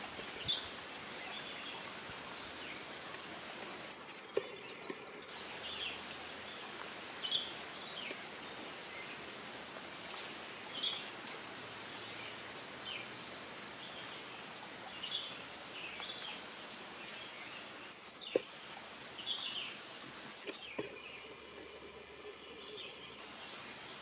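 Forest ambience: short high bird chirps every second or two over a steady background hiss.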